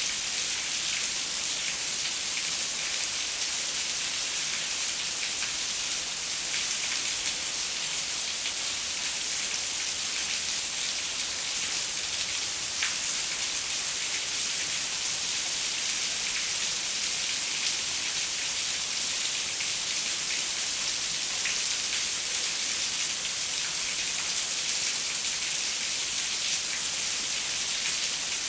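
Steady rain falling on a window, an even hiss with faint scattered drop ticks.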